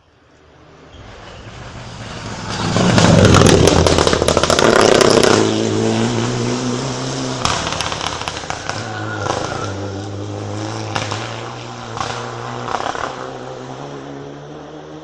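Rally car approaching at full throttle and passing close by, loudest about three to five seconds in, then its engine note fading as it drives away, with sharp crackles throughout.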